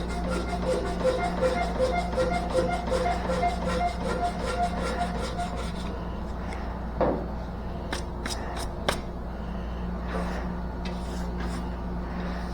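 Hand sanding on a car body panel, quick back-and-forth strokes about three a second that stop about six seconds in. A knock and a few sharp clicks follow, over a steady low hum.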